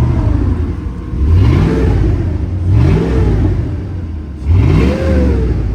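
Cadillac engine revved through its newly installed exhaust and muffler: three quick throttle blips, each rising in pitch and falling back to idle.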